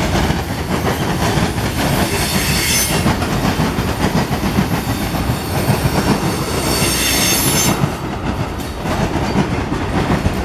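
Freight cars rolling past close by: a steady rumble and knocking of steel wheels on the rails. Two spells of high-pitched wheel squeal, each about a second long, come a couple of seconds in and again about seven seconds in.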